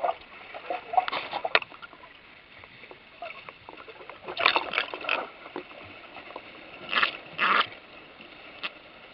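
Water splashing and sloshing in short bursts, half a dozen times, over a steady low hiss of moving water.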